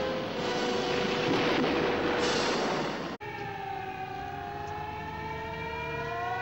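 Jet aircraft engines: a rushing roar for about three seconds, then, after an abrupt cut, a turbine whine that slowly falls and then rises in pitch.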